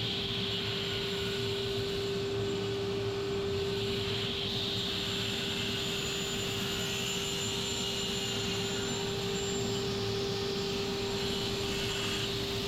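Electric woodworking machine running steadily under power, a constant hum with a hissing whir above it.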